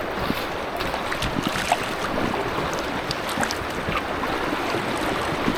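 Steady rush of white water in a small river rapid, with a few light splashes.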